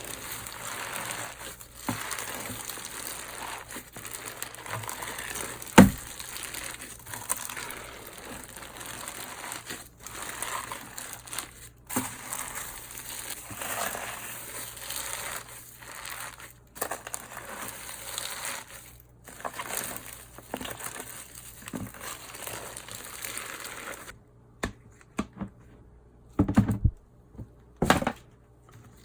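Slime being kneaded and squeezed by hand: a dense, continuous run of crackling and crinkling, with one sharp snap about six seconds in. About 24 seconds in the crackle stops, and a few separate, louder presses follow.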